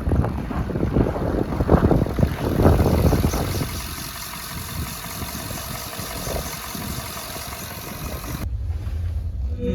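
Ford F-150 pickup truck engine running, with wind noise on the microphone; louder and uneven for the first few seconds, then steadier and quieter.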